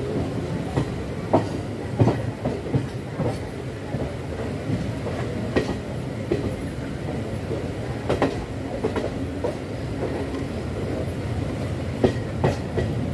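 Express passenger train coach running along the track: a steady rumble of wheels on rails, broken by irregular sharp clacks as the wheels cross rail joints.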